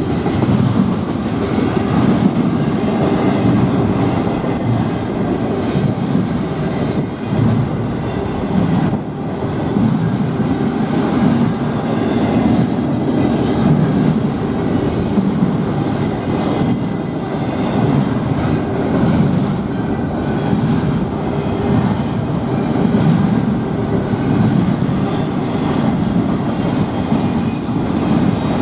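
Freight train cars rolling past, a loud steady rumble of steel wheels clacking over the rail joints with some wheel squeal.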